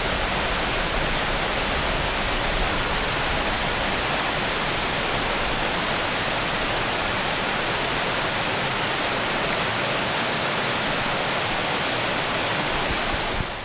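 Mountain valley stream running steadily, a continuous even rush of water that cuts off at the very end.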